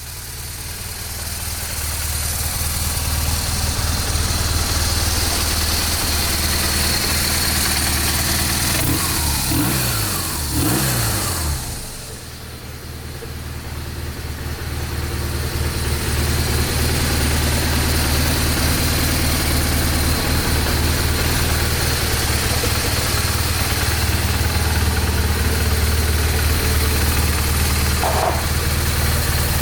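BMW R1200RT's boxer-twin engine idling steadily, with a few throttle blips rising and falling in pitch about ten seconds in before it settles back to idle.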